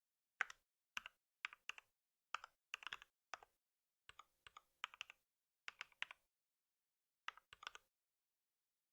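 Typing on a computer keyboard: about twenty keystrokes in uneven little runs with short pauses between them, stopping about a second before the end.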